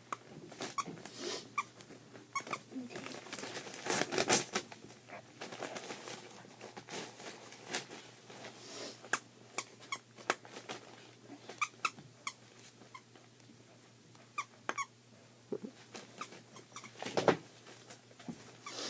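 A dog tearing at gift wrapping and playing with a new toy: scattered crinkling, rustling and knocks, with a few short squeaks. The loudest bursts come about 4 seconds in and again near the end.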